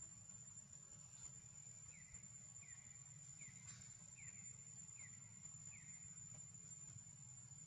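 Near silence, with a faint, steady, high-pitched insect drone. From about two seconds in, a short falling chirp repeats roughly once every 0.8 seconds, six times.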